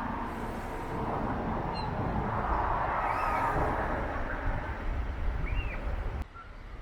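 Outdoor street ambience: a steady rumble with gulls giving short, arching calls a few times over it. The sound drops suddenly near the end.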